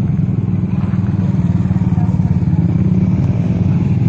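Small single-cylinder four-stroke Suzuki DR-Z110 dirt bike engine running steadily.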